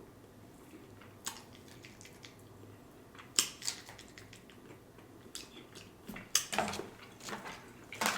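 Close-miked eating: fried chicken being bitten and chewed, giving scattered crisp crunches and mouth clicks, with a busier run of them near the end.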